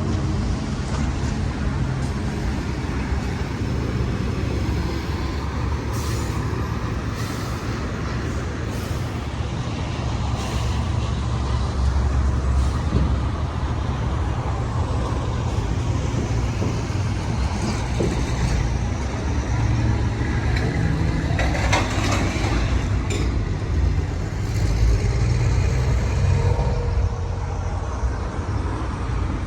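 Steady low rumble of a heavy vehicle engine running nearby, with a few brief clicks and hisses over it.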